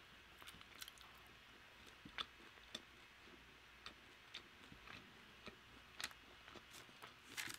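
Faint close-miked chewing of crispy fried chicken: soft scattered crunches and mouth clicks, with a slightly louder cluster of crackles near the end.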